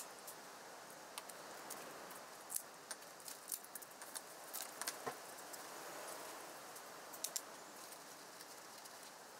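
Aluminium T-slot extrusion lengths from a 3018 CNC router kit clinking and tapping against each other as they are handled and laid down, a scatter of separate short metallic clicks.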